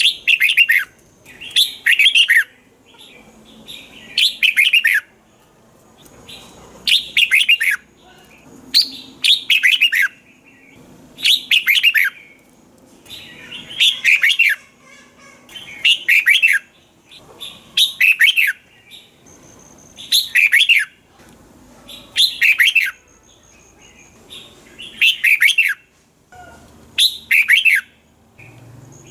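Red-whiskered bulbul singing: short phrases of quick notes falling in pitch, repeated about every two seconds.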